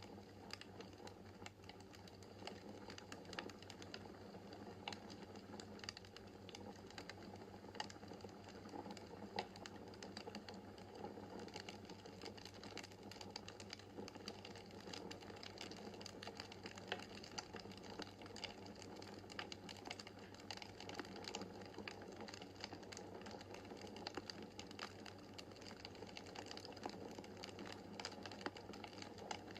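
Wood fire crackling in a fireplace: a dense, irregular run of small snaps and pops over a steady low hiss of the burning logs.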